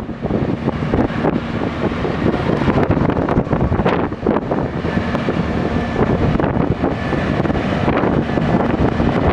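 SANY SAG160-5 motor grader's diesel engine running steadily while it works, with heavy wind noise on the microphone.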